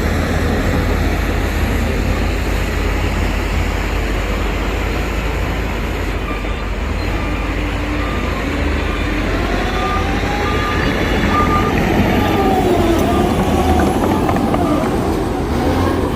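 Heavy diesel earthmoving machinery running with a steady low rumble, its engine pitch rising and falling in the second half. For several seconds in the middle, a reversing alarm beeps at about two beeps a second.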